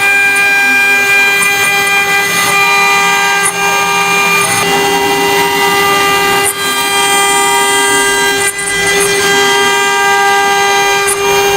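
CNC router spindle milling aluminum: a loud, steady, high whine made of several held tones, with a few brief dips along the way.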